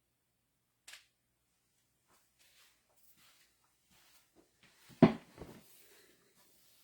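Handling noises: a sharp click about a second in, faint rustling and tapping, then a loud thump about five seconds in with a smaller knock just after.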